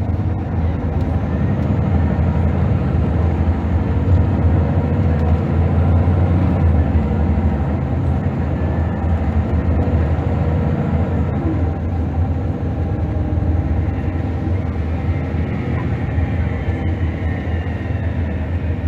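Scania DC9 five-cylinder diesel engine of a Scania L94UB city bus running under way, with a deep steady drone and road noise. The drone grows louder a couple of seconds in and eases off after about seven seconds, and a faint rising whine comes in near the end.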